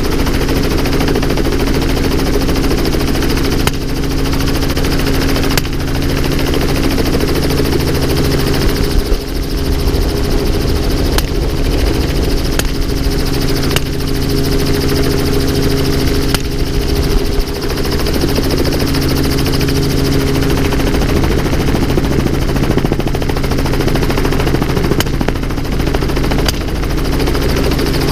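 Helicopter engine and rotor running steadily, with sharp gunshots fired about nine times at irregular gaps of one to several seconds.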